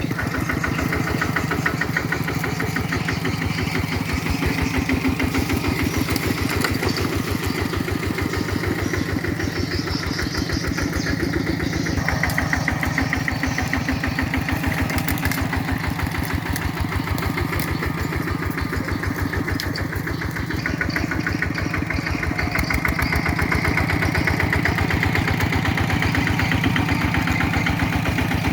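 Kubota tractor's diesel engine running steadily while plowing, with a quick, even beat of firing pulses, growing slightly louder near the end.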